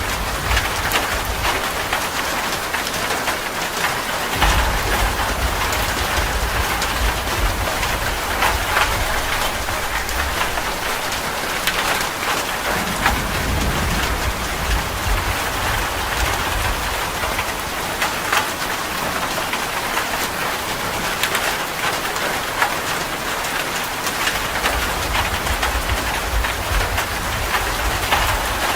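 Heavy rain pattering densely on a metal roof, with many sharp drop ticks, and a low thunder rumble that swells and fades a few times.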